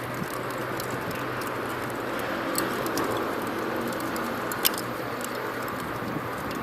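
Wood fire burning in a fireplace: a steady hiss with a few sharp crackles.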